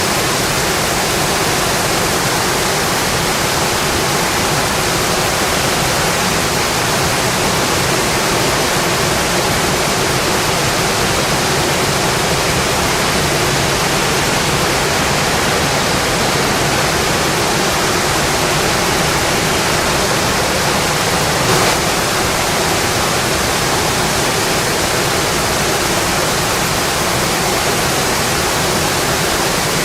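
Steady rainfall, a dense, even hiss with no let-up, and one faint brief tap about two-thirds of the way through.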